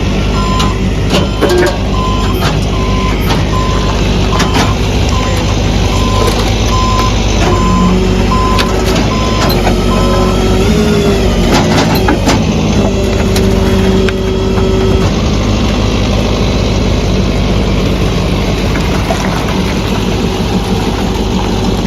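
A vehicle's reversing alarm beeping about once a second over a steady engine rumble; the beeping stops about halfway through while the engine keeps running.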